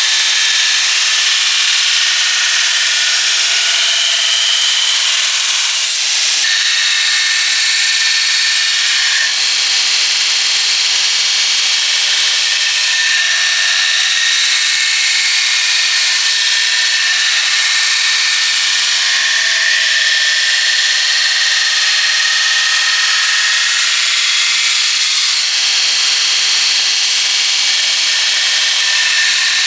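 Electric power tool running steadily against steel, a loud high hiss with a faint whine, its character changing abruptly a few times.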